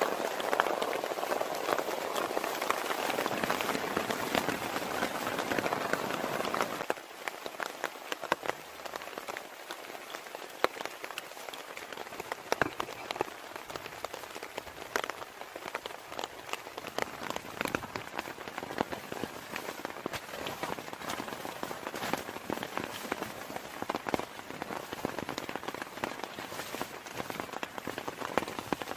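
Heavy rain falling, a dense patter with individual drops tapping close by. About seven seconds in it suddenly becomes quieter and thinner, leaving a lighter patter of separate drops.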